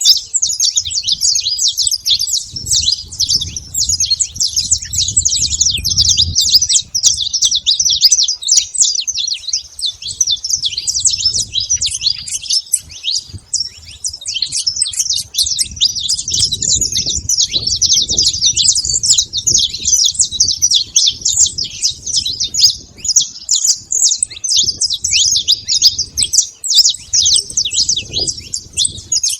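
Saffron finch singing: a near-continuous, rapid stream of high chirping notes with no real pauses. A low rumble comes and goes underneath.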